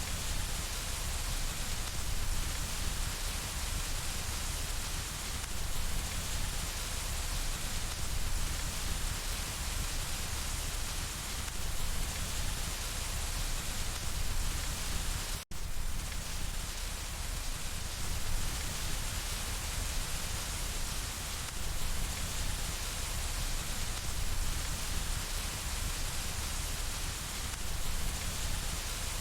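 Steady rain pattering on window glass, an even hiss with no distinct events. About halfway through it cuts out for a split second and comes straight back.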